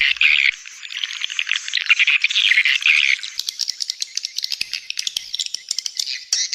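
Swiftlet calling-sound lure recording: a dense chorus of high swiftlet twittering chirps, changing about halfway through to a fast run of sharp, dry clicking chirps.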